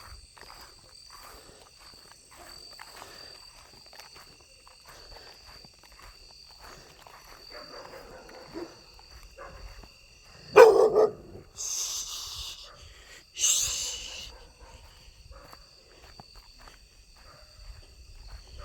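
A single loud, short animal call, bark-like, about ten and a half seconds in, followed by two brief hissing bursts. A steady chorus of night insects shrills underneath.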